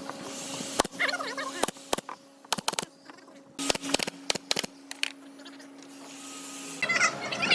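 Irregular sharp taps and knocks, several in quick succession in the middle, over a steady hum. Brief voices come in about a second in and again near the end.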